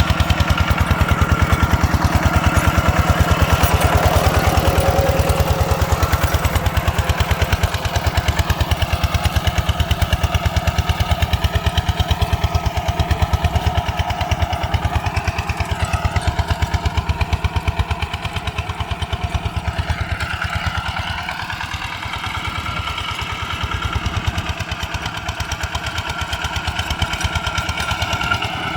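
ZT155 single-cylinder diesel engine of a tractor running steadily, with a fast even chugging beat. It grows somewhat quieter over the middle of the stretch.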